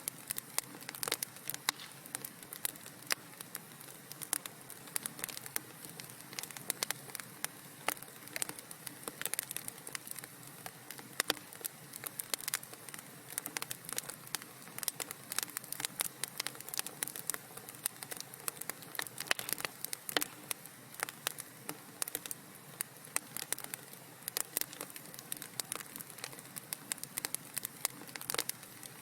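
Fireplace wood fire crackling: dense, irregular pops and snaps over a soft, steady hiss.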